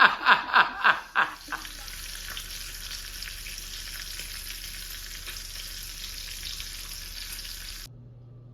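Laughter in rapid bursts for about the first second, then a steady hiss with a faint low hum that cuts off suddenly near the end.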